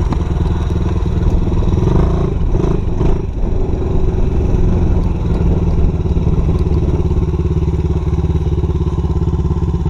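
Small dirt bike engine running under way, heard close up; its pitch wavers briefly and the level dips about three seconds in, then it runs steadily again.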